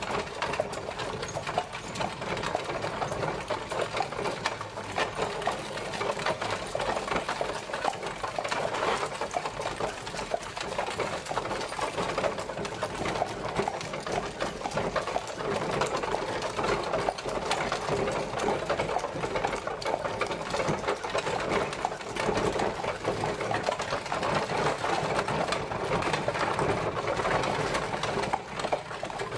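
Horse-drawn carriage travelling: a steady, dense, fast clatter and rattle of the rolling carriage and its wheels, going on without a break.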